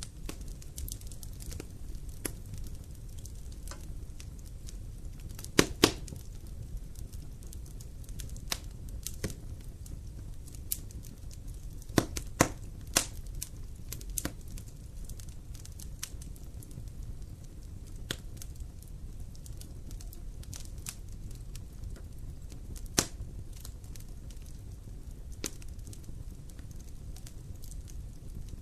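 Campfire burning and crackling: irregular sharp pops and snaps over a steady low rumble. The loudest are a pair of pops about six seconds in, a cluster around twelve to thirteen seconds, and a single one near twenty-three seconds.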